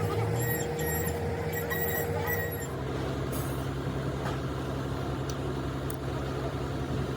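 An engine or machine running steadily. Its pitch and tone change about two and a half seconds in, and short high chirps repeat in the first part.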